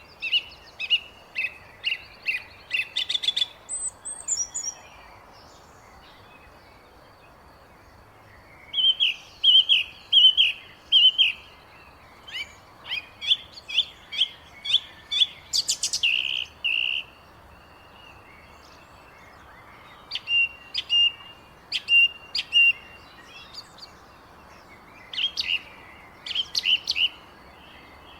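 Small songbirds chirping in quick bouts of short high chirps, with pauses of a few seconds between bouts over a faint steady hiss.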